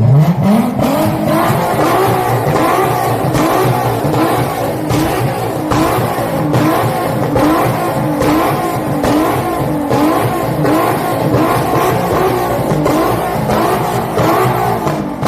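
Car engine revving hard: the pitch climbs over the first second, then is held at high revs, wavering rapidly up and down over a steady harsh hiss.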